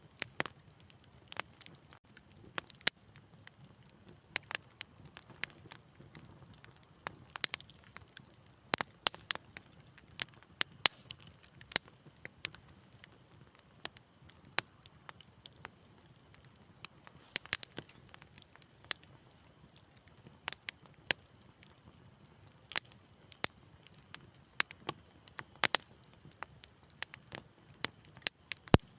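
Wood fire crackling: irregular sharp pops and snaps, several a second at times, over a faint low rumble of burning.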